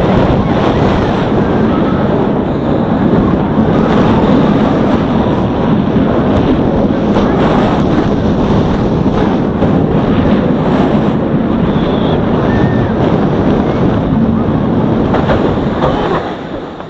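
Wind blasting over the microphone and a steel roller coaster train running fast along its track: a loud, steady rush that dies down sharply near the end.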